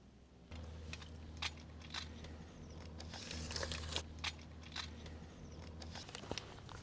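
Irregular crunching and crinkling, a sharp crackle about every half second over a steady low hum.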